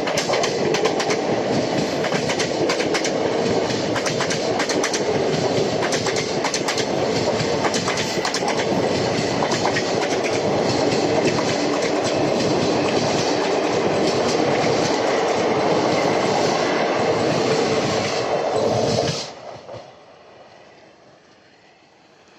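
Unchahar Express passenger train running on the rails, its wheels clattering over rail joints in a steady, loud rumble, which falls away suddenly to a faint hiss about 19 seconds in.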